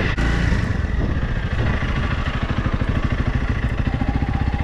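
Motorcycle engine running, settling about halfway through into an even, pulsing idle.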